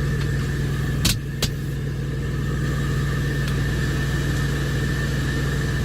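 Steady low hum of an idling semi-truck diesel engine, with two sharp knocks about a second in, a third of a second apart, as belongings are put back in place.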